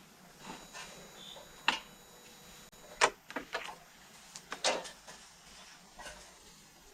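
Scattered light clicks and knocks, about half a dozen, of small parts and tools being handled while something is hooked up.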